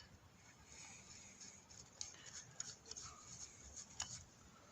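Faint light metallic clicks and taps of small steel parts being handled: brake disc bolts being fitted by hand. One slightly sharper click comes about four seconds in.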